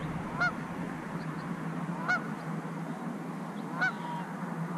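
A bird calling three times, short rising-and-falling calls about a second and a half apart, over a steady low hum.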